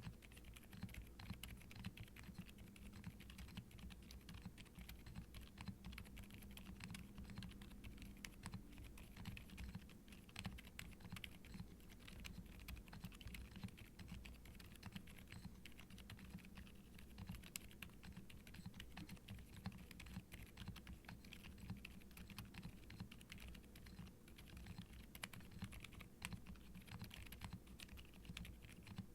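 Continuous quiet typing on a 65% mechanical keyboard with WEKT Lucy V5 silent linear switches in an ABS plate and double-shot ABS keycaps: soft, irregular, muted keystrokes with little click or clack, the switches' TPU stem inserts damping the bottom-out and return.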